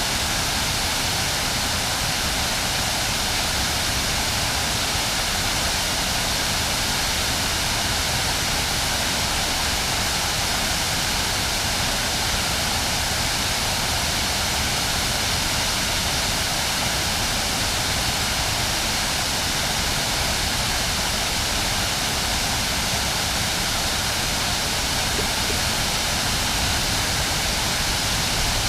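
River waterfall rushing steadily, an even, unbroken wash of falling water.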